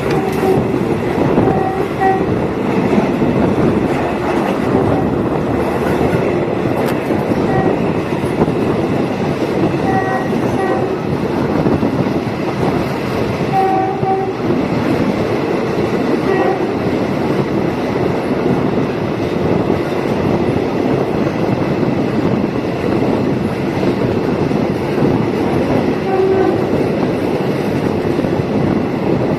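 Thai diesel multiple unit railcar running along the track: a steady, loud rumble and rattle of the train in motion, with a few brief high tones at intervals.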